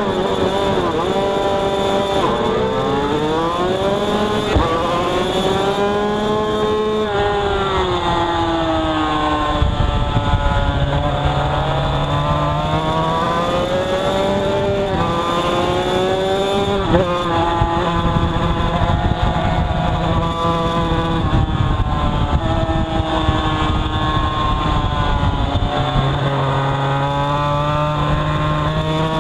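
Two-stroke road-racing motorcycle engine heard onboard at full race pace, its pitch climbing steeply again and again as it revs up through the gears and falling back between rises.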